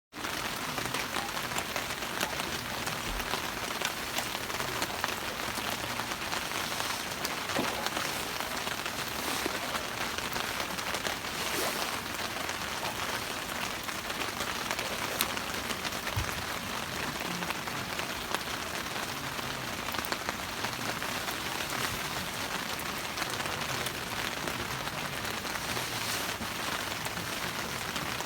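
Steady rain falling, a dense patter of small drop ticks over an even hiss, starting abruptly.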